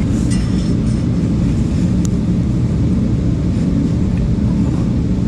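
A steady low rumble, with a few faint light clicks in the first second and one sharp tick about two seconds in.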